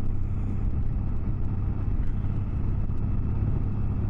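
Motorcycle under way: steady engine drone with road and wind noise.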